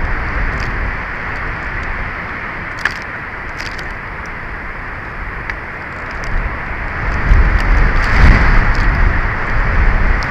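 Strong wind at the eagle nest camera: a steady rushing hiss with scattered small crackles, and a heavier gust rumbling in on the microphone about seven seconds in.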